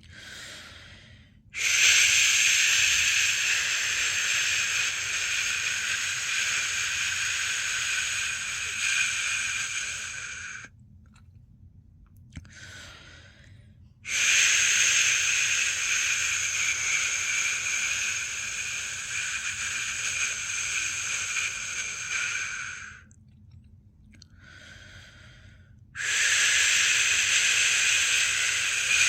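A person making long steady 'shhh' shushing sounds to soothe a newborn to sleep: three drawn-out shushes of about nine seconds each, with a softer breath taken in the short pauses between them.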